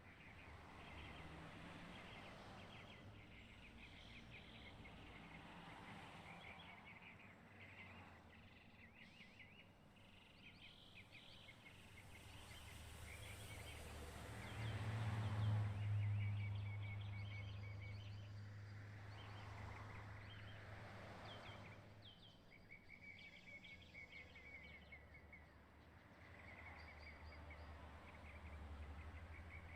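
Outdoor ambience of small birds chirping in quick high runs. A low rumble swells to its loudest about halfway through and then fades away.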